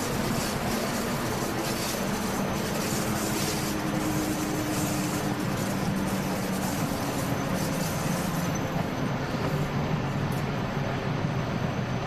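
Electric train running along the Flåm Line: a steady rumble and rush of wheels on rails, with a low hum underneath.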